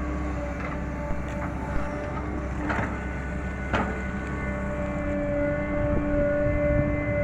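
Caterpillar 318 hydraulic excavator at work: its diesel engine runs steadily with a hydraulic whine, and the engine note strengthens from about five seconds in as the machine takes load. Two sharp knocks come about three and four seconds in.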